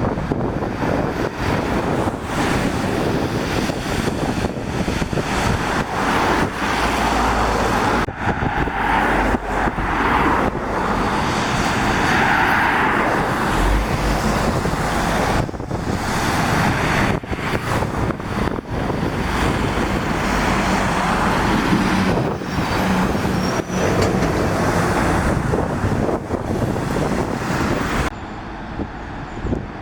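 Road traffic of lorries and cars passing on a wet road: engines running and tyres hissing on the wet surface. The sound changes abruptly a few times.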